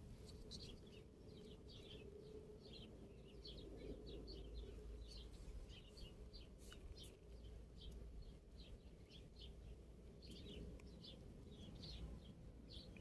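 Faint bird chirps, many short calls repeated all through, over low outdoor background noise.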